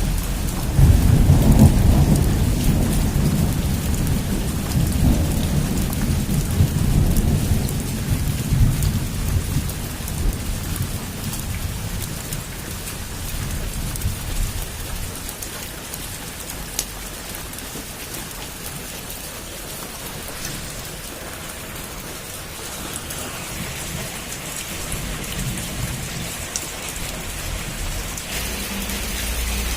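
Heavy rain falling steadily, with a long roll of thunder that starts about a second in and rumbles away over the next ten seconds.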